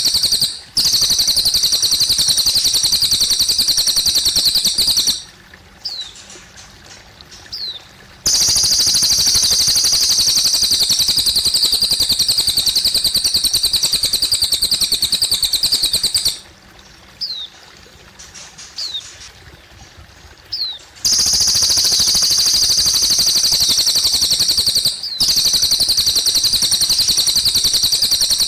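Cililin bird singing long, rapid, high-pitched trills lasting several seconds each, broken by short pauses with a few brief chirps, over a faint trickle of water.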